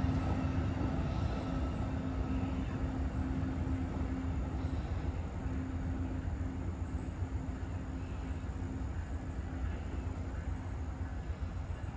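Amtrak passenger train rumbling past and moving away, a steady hum riding on the rumble, the whole sound slowly growing quieter.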